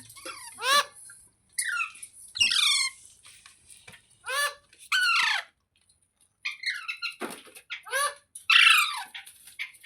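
Green ringneck parrot (rose-ringed parakeet) giving a string of short, harsh squawks, most of them dropping in pitch. There is a pause of about a second near the middle.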